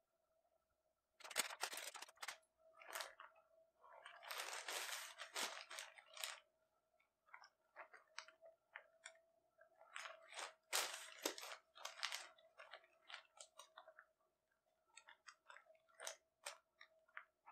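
Hands crinkling and rustling newspaper while leather pieces and a plastic ruler are moved and marked, with small ticks and scrapes in between. A faint steady hum lies underneath.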